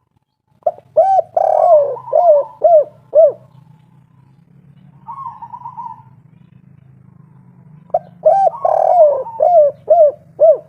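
Spotted dove (tekukur) cooing its 'kuk 3' song: two phrases of about six low coo notes each, the second starting about eight seconds in, with a softer rolling trill in between. A faint low hum runs underneath.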